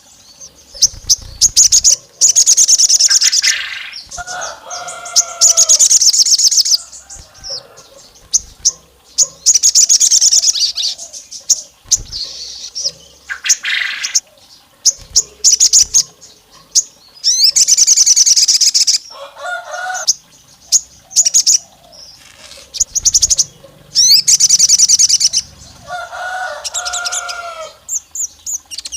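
Sogon songbird calls: repeated loud, high-pitched rapid trills, each lasting a second or two, coming in bursts separated by short gaps. At a few points lower warbling notes sound with them. It is a lure track, a female calling to provoke a male.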